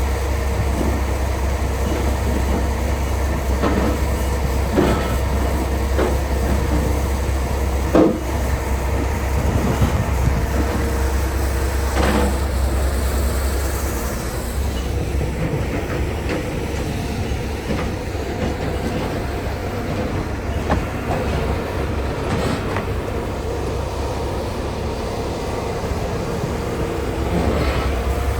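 Logging truck driving, heard from inside the cab: a steady low engine and road drone with scattered knocks and rattles, the sharpest about eight seconds in.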